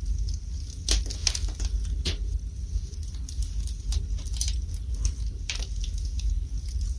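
Wood fire burning in a fireplace: irregular sharp crackles and pops over a steady low rumble of the flames, with a few louder pops about a second in, at two seconds and again near the middle.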